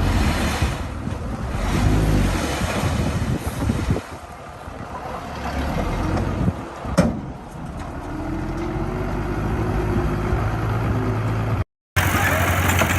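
Diesel engine of heavy earthmoving equipment running, with a sharp knock about seven seconds in and a rising engine note shortly after. The sound drops out briefly near the end and comes back louder.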